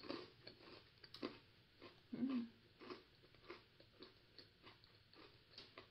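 Soft crunching of a crisp peanut senbei cookie being chewed, a string of small crunches every half second or so, with a short hummed "mm" about two seconds in.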